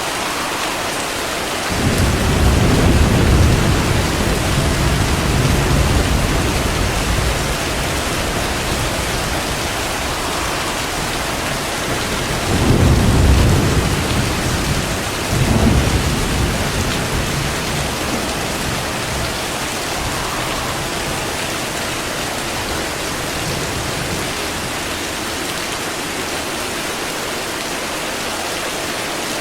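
Steady rain with thunder rumbling: a long peal starts about two seconds in and fades over several seconds, and two shorter rumbles follow near the middle.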